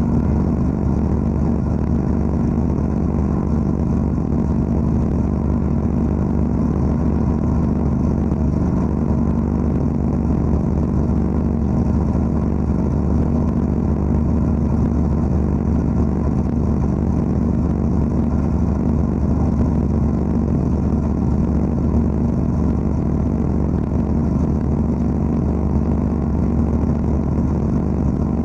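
Wet abrasive blasting equipment running: a steady, unbroken machine drone with a deep hum.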